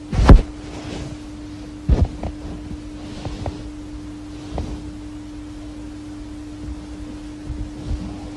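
A steady low electrical-sounding hum on one pitch, with a heavy thump just after the start, another about two seconds in, and a few lighter knocks later.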